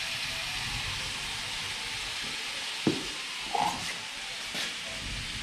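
Chunks of meat sizzling in hot oil in a kazan over a high wood fire, a steady hiss as the meat's juices cook off at the browning stage of plov. A single sharp knock sounds about three seconds in.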